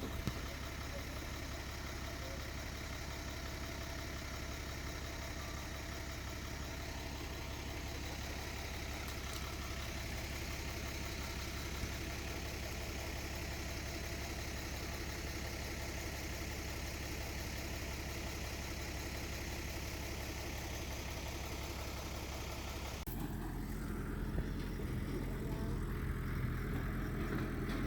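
Diesel engine of heavy construction equipment running steadily. About 23 seconds in, the sound cuts abruptly to a different steady engine hum with a clearer low drone.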